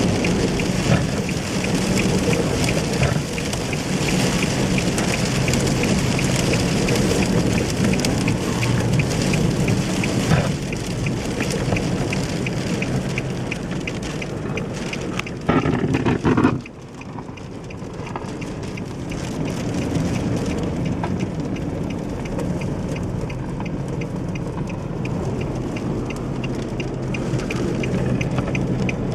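Heavy rain pouring down in a thunderstorm, a steady dense hiss of rain hitting surfaces. About half way through it swells louder for a second or so, then drops off suddenly before building back up.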